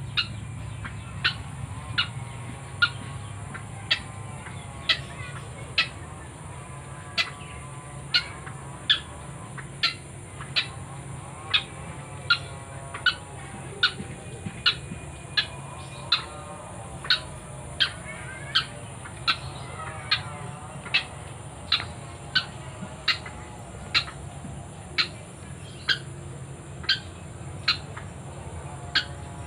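White-breasted waterhen giving a short, sharp call over and over, a little more than once a second, at a steady, monotonous pace. A steady high insect hiss runs underneath.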